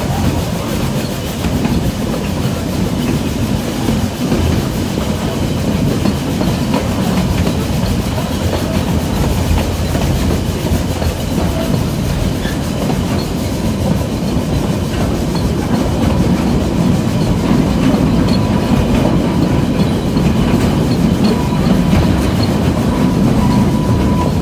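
Narrow-gauge steam train running along the track, heard from an open-sided carriage: a steady low rumble and clatter of the carriage wheels on the rails, a little louder in the last third.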